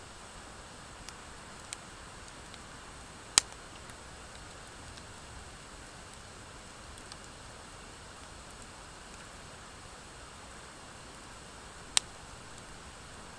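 Campfire of driftwood and dry hardwood burning: a steady soft hiss with scattered faint crackles, and two sharp pops, one about three seconds in and a louder-looking one near the end.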